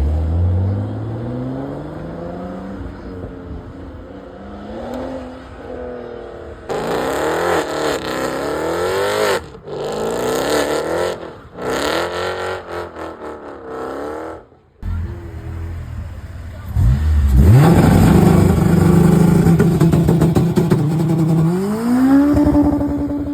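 Performance car engines revving hard as cars accelerate away: engine pitch climbs, then a car revs up and down several times in quick rising and falling sweeps before cutting off abruptly. After a short lull another car runs loudly, its revs sweeping up and holding high near the end.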